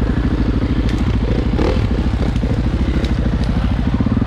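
KTM EXC enduro motorcycle's single-cylinder four-stroke engine running at low, steady revs, with a few light clicks and knocks over it.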